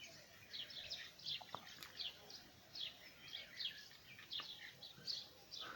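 Faint small birds chirping: many short, high chirps in quick irregular succession.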